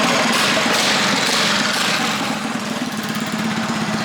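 Small engine running steadily at a fairly even speed, with a fast, even pulse.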